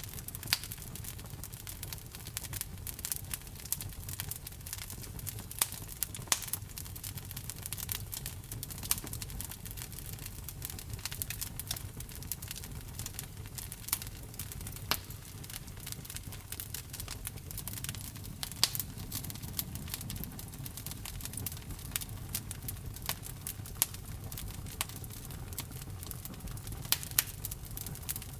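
Wood fire burning in a fireplace, logs crackling with frequent sharp pops over a low steady rumble of the flames.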